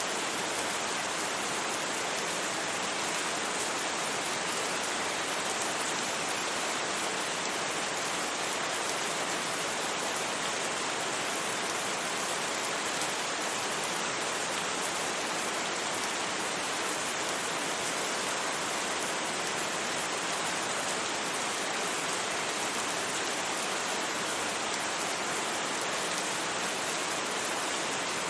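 Steady rain: a constant, even hiss of rainfall with no thunder.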